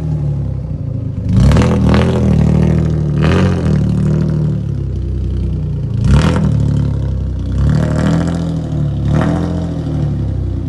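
Volkswagen Passat 2.8 V6 running with its muffler deleted, a low exhaust rumble at low revs broken by about six short throttle blips that rise and fall in pitch.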